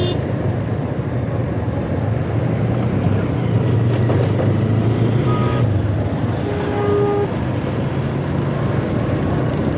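Motorcycle engine running steadily while riding through street traffic, with wind and road noise.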